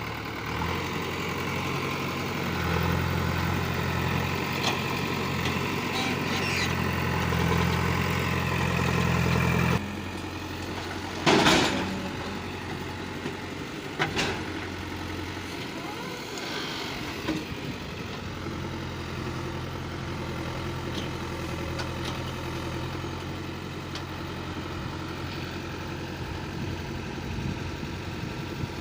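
Diesel engine of earth-moving machinery running steadily, louder for about the first ten seconds and then suddenly dropping to a lower level. A short, loud burst of noise comes about eleven seconds in, with a few lighter knocks after it.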